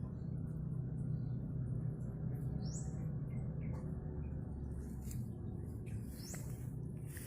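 Short, high, rising chirps a few times, with the strongest about three seconds in and again near the end, over a steady low hum.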